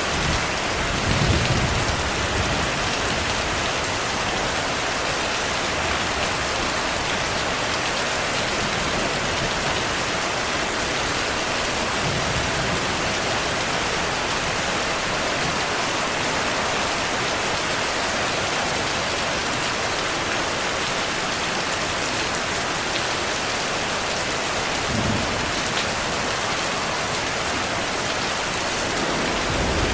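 Steady rainfall with low rumbles of thunder, one about a second in and another around 25 seconds.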